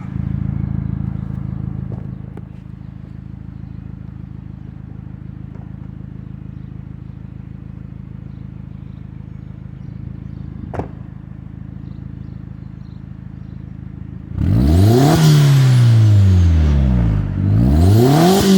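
Exhaust of a 2005 Volkswagen Golf GTI's turbocharged 1.8-litre four-cylinder engine. It idles steadily, then from about fourteen seconds in it is revved hard several times, the pitch climbing and falling with each blip.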